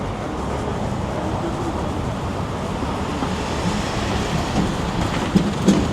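Busy city street noise: a steady, dense rumble of traffic, with two short louder sounds near the end.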